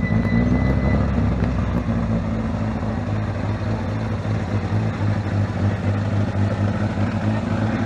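Historic rally car's engine running at a steady idle as the car is brought in to park.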